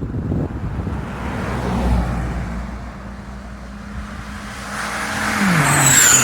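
Toyota Corona Absolute automatic with a modified stock exhaust, its engine running under throttle. A rush of exhaust noise builds to its loudest near the end, with a brief high whistle falling in pitch. The engine note drops in pitch about five seconds in.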